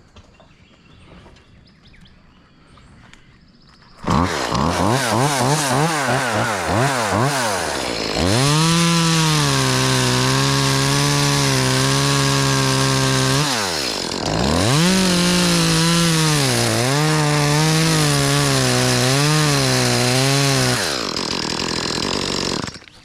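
Chainsaw starting up about four seconds in with its pitch wavering quickly, then running at full throttle through one cut, easing off briefly, and cutting again before winding down near the end. The two cuts fit a snap cut: the limb is cut from one side, then from the other side a little lower.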